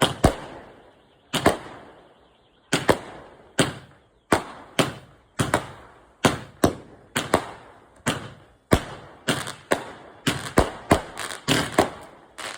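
25-shot firework cake firing its shots one after another: a string of sharp bangs, each with a short echo. They come about every half second to a second, quickening into a faster run near the end.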